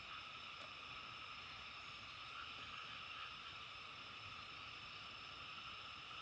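Faint, steady outdoor nature ambience: an even hiss with a constant high-pitched shimmer and no distinct calls or events.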